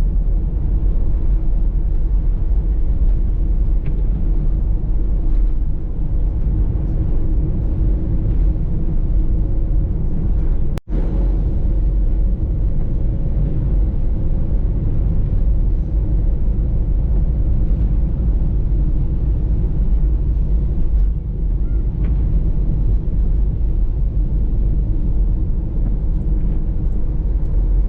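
Steady engine and road rumble inside a moving Peugeot Partner minivan, with a split-second break about eleven seconds in.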